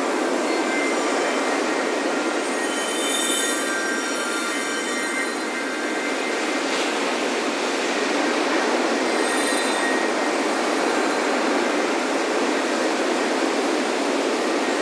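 Ocean surf washing steadily on the beach, with wind chimes ringing over it: a cluster of high chime tones about three seconds in and again near ten seconds.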